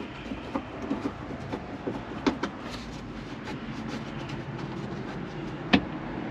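Scattered small clicks and knocks of hand tools and screws being worked in a car's interior, with one sharp knock near the end, over the steady hum of a battery fan.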